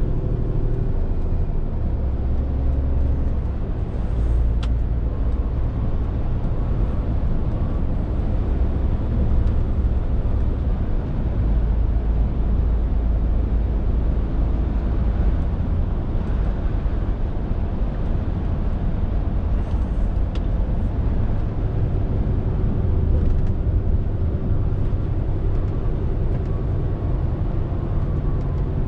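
Scania R450 lorry's 13-litre straight-six diesel running on the road, a steady low drone with tyre and road noise, its pitch shifting a few times as the revs change. Two short sharp clicks, about 5 and 20 seconds in.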